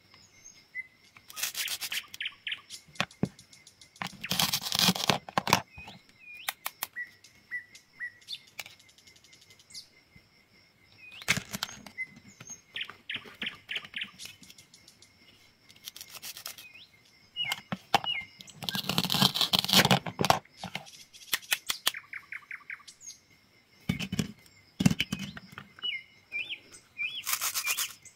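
Food being cut in a series of crunching, tearing bursts with sharp clicks in between, as a blade goes through it. Small birds chirp briefly throughout.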